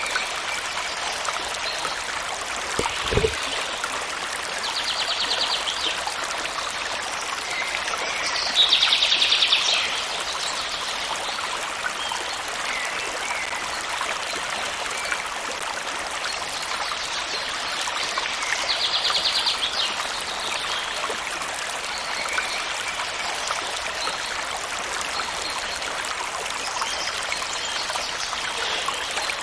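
A stream running steadily, with birds giving short rapid trills three times, the loudest about nine seconds in. There is a brief low thump about three seconds in.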